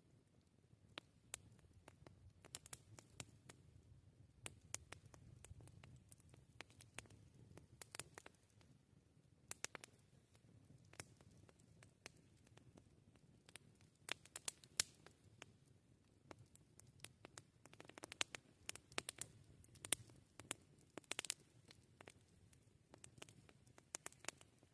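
Wood campfire crackling: irregular sharp pops and snaps, clustering more thickly in the second half, over a faint low rumble.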